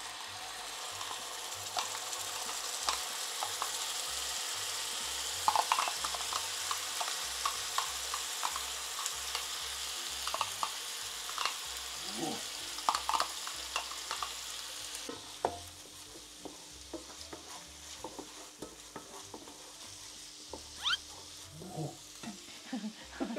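Ground shallot and garlic paste sizzling in hot oil in a frying pan, with the stirring utensils scraping and clicking against the pan. The sizzle drops quieter about two-thirds of the way through.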